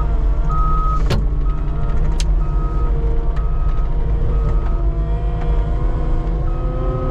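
Skid steer's engine running steadily under load while its backup alarm beeps about once a second, with a pause in the beeping partway through; two sharp knocks come about one and two seconds in.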